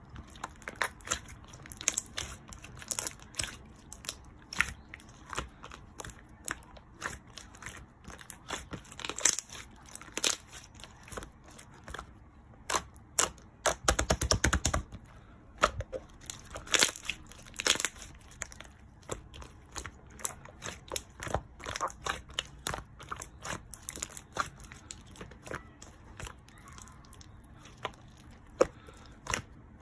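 Slime being pressed, squished and stretched by hand, making an irregular run of sharp little pops and sticky clicks, with a dense crackling flurry about halfway through.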